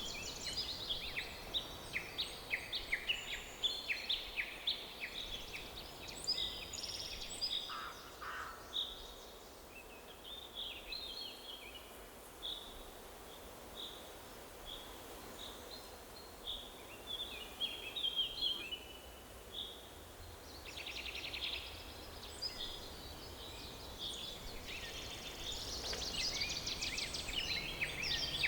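Songbirds chirping and trilling in a forest over a soft, steady background hiss. The calls are busy at first, thin out in the middle, and pick up again over the last several seconds.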